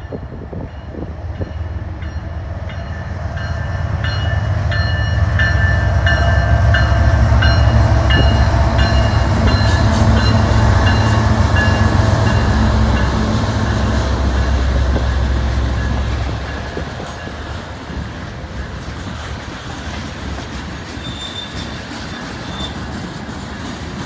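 CN freight train passing at close range: the diesel locomotives' engine rumble builds and holds for about twelve seconds, then drops off about two-thirds of the way in as the freight cars roll by with steady wheel and rail noise. A high ringing pulses about twice a second as the locomotives approach, and a short wheel squeal sounds near the end.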